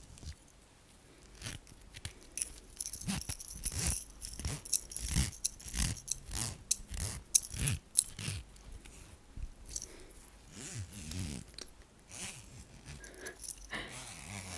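Fingertips, without long nails, scratching and rubbing along a metal chain necklace close to the microphone, giving quick irregular clicks and scrapes. They are busiest in the middle and thin out near the end.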